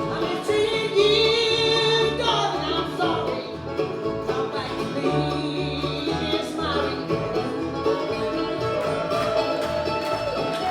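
Live bluegrass band playing, with banjo and guitar picking over a steady walking low line and a lead melody line on top.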